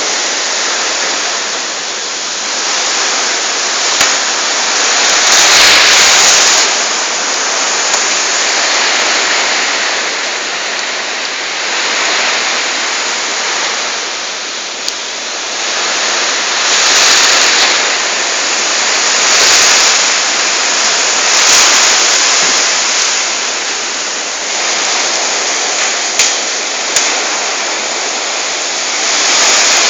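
Strong storm wind rushing in gusts, a loud noise that swells and eases every few seconds. A few brief sharp clicks or knocks cut through it.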